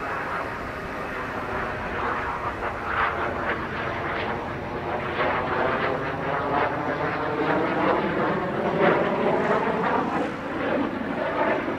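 BAe Hawk Mk 51 jet trainer's Rolls-Royce Turbomeca Adour turbofan roaring in a display pass, growing louder to a peak about three-quarters of the way through.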